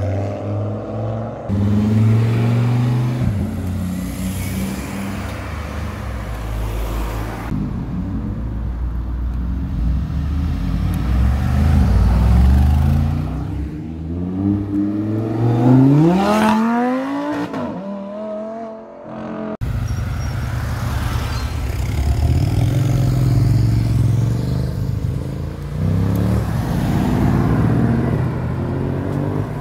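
Performance car engines accelerating hard one after another, the pitch climbing steeply as they rev through the gears, with sudden jumps from one car to the next.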